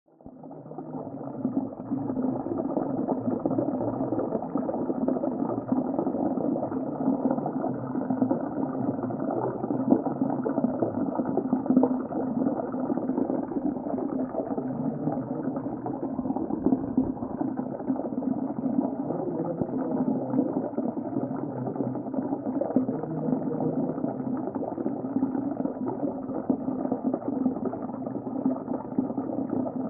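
Underwater sea ambience: a steady, muffled bubbling wash with nothing high-pitched in it, fading in over the first second or two.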